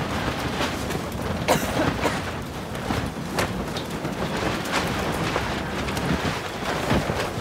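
Strong dust-storm wind buffeting the microphone as a steady rumbling rush, broken by a few sharp cracks.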